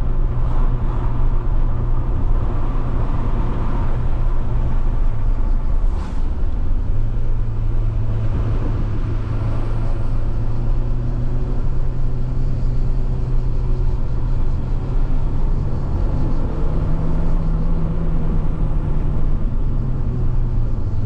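Alfa Romeo 156 1.8 Twin Spark's four-cylinder engine running under way with steady road noise. The engine note drops briefly about six seconds in. Near the end the revs climb and then ease back.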